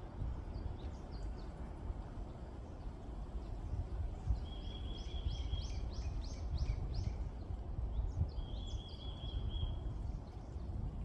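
Wind rumbling on the microphone while small birds sing: a level, high trill twice, about four and eight seconds in, with a run of quick descending whistled notes over the first trill and scattered short chirps.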